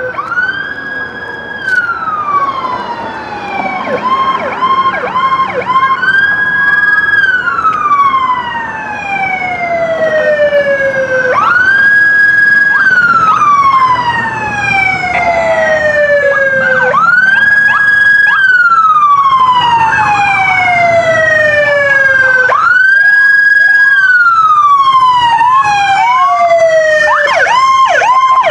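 Several police car sirens sounding together on the wail: each rises, holds briefly, then falls in a long slow sweep, repeating about every five and a half seconds, with short quick yelping chirps mixed in twice. The sirens grow louder over the first ten seconds or so as the vehicles approach.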